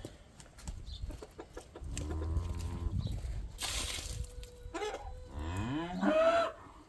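A cow mooing twice. The first moo is low and steady. The second rises in pitch and is louder. Between them there is a brief burst of hiss.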